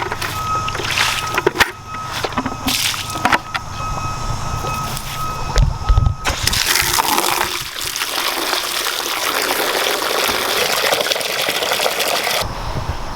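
A hose running water into a goat's water bucket, starting about halfway through as a steady rush and cutting off suddenly near the end. Before it, a few clicks and knocks.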